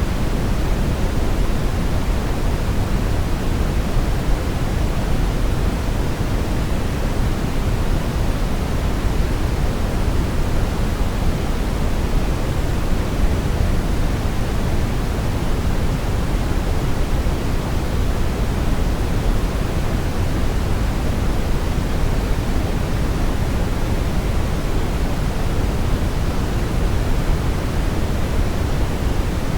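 Synthetic brown noise: a steady, deep rushing hiss weighted toward the low end, unchanging throughout.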